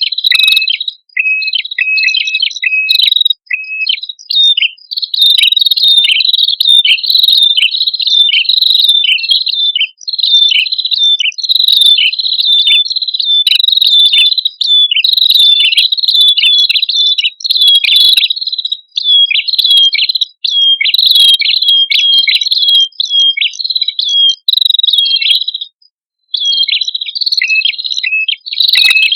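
Prenjak kepala merah, a small Indonesian prinia-type warbler, singing a fast, unbroken run of short, sharp chirping notes, with a brief pause about three-quarters of the way through.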